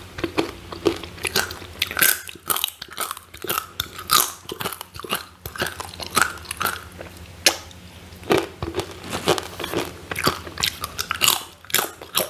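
Crunching and chewing of crispy fried sweet potato chips, close to the microphone: sharp crackling bites and munches coming quickly and irregularly.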